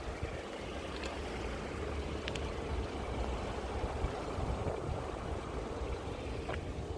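Steady low rumble of vehicle traffic, with a faint steady hum and a few light clicks.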